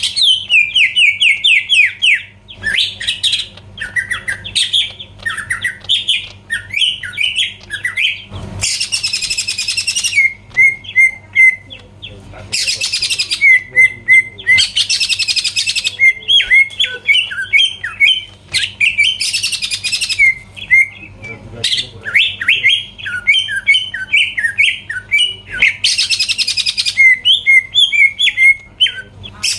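Green leafbird (cucak ijo) in full loud song: fast runs of sharp chirping notes, broken five times by harsh buzzing bursts about a second long.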